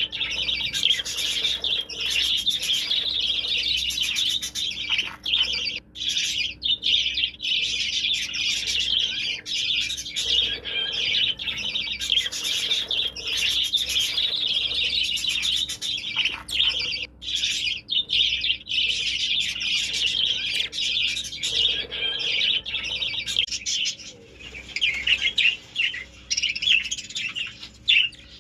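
Budgerigar chatter: a dense, continuous warble of chirps that starts abruptly and breaks up into separate chirps near the end.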